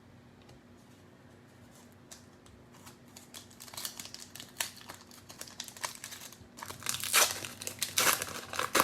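Cellophane wrapper of a trading-card cello pack being torn open and crinkled. It starts about three seconds in and grows louder toward the end, over a faint steady hum.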